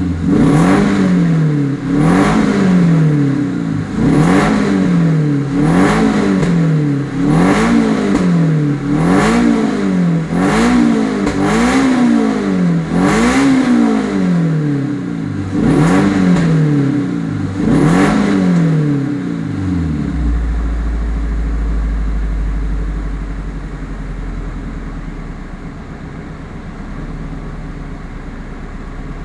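Supercharged Toyota 2ZZ-GZE 1.8-litre four-cylinder engine blipped again and again, each rev climbing and falling back, about every second and a half. About two-thirds of the way through the revving stops and the engine settles to a steady idle.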